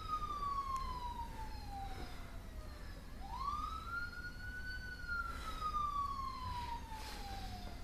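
A siren wailing. Each cycle climbs quickly, then sinks slowly over several seconds, one rise about three seconds in.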